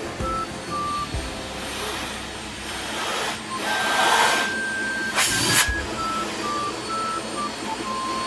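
Vacuum cleaner running with a steady rushing suction noise that swells about three and a half seconds in and again about five seconds in. Simple background music of short beeping notes plays over it.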